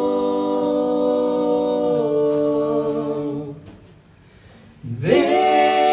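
Three voices singing close a cappella harmony, holding a sustained chord that steps to a new chord about two seconds in and fades out before the four-second mark. After a short pause, the voices come back in on a fresh held chord near the end.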